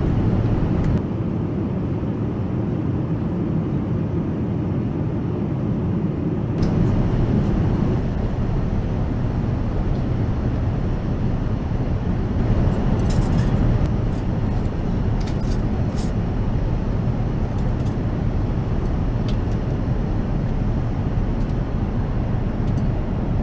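Steady low rumble of engine and airflow noise inside the cabin of an Airbus A380 airliner, its character shifting slightly a couple of times.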